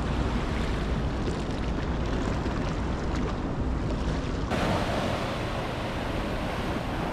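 Ocean surf washing on the shore, with wind rumbling on the microphone. The sound changes abruptly about four and a half seconds in, as at a cut to another spot along the water.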